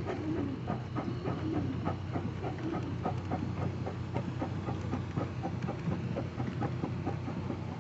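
An antique engine running steadily: a low hum with a regular beat of sharp knocks, about three a second.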